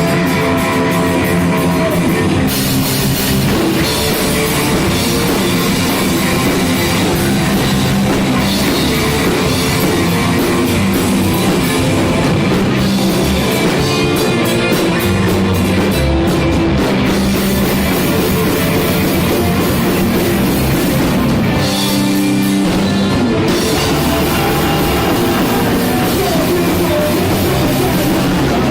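Punk rock band playing loud and steady, with electric guitars and a drum kit, and a brief break in the low end about two-thirds of the way through.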